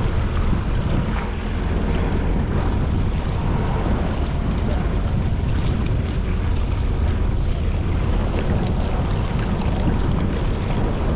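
Jet ski running on the water with wind buffeting the microphone, a steady mix of engine, rushing water and wind noise.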